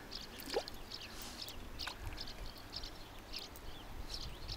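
Faint birds chirping in short, scattered calls, with a couple of soft clicks.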